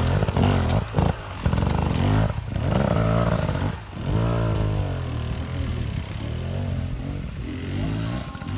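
Off-road trail motorcycle engine revving up and down repeatedly as it picks its way over rough, steep ground, with a few knocks and clatters in the first half.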